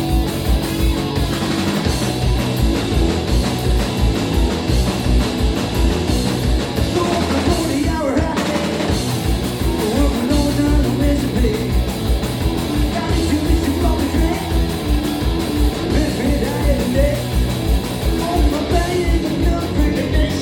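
Punk rock band playing live: distorted electric guitars and bass over a fast, driving drum beat, with singing.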